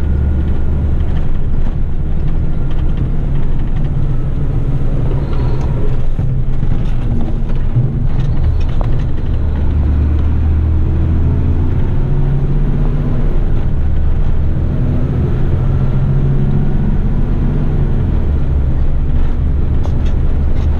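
Heavy rigid truck's diesel engine running steadily while driving, with road noise; the engine note shifts a little up and down.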